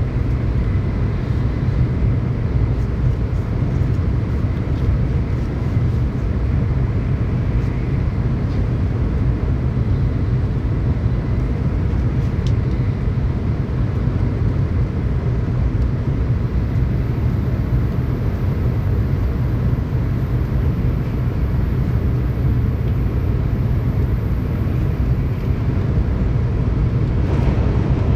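Tokaido Shinkansen train running at speed, heard from inside the passenger car as a steady low rumble and rushing noise.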